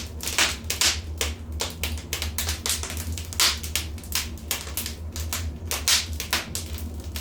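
Wood fire in a fireplace crackling: irregular sharp pops and snaps several times a second, over a low steady hum.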